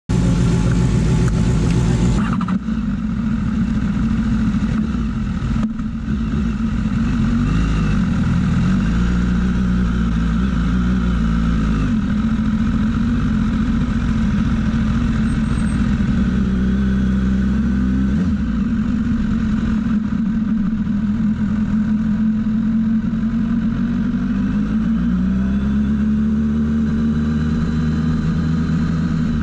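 Sport motorcycle engine running at low revs, heard close up from a camera mounted on the bike, its pitch rising and falling a few times as the throttle is opened and closed at walking-to-jogging speed.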